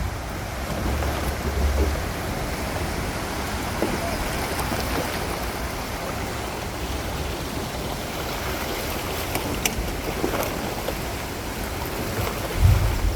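Steady rushing of a river in flood, over its banks. Gusts of wind buffet the microphone about a second in and again near the end.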